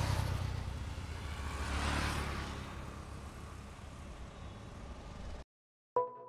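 Car engine running with a low rumble, swelling about two seconds in and easing off, then cutting off abruptly. Just before the end a smartphone ringtone begins, ringing for an incoming call.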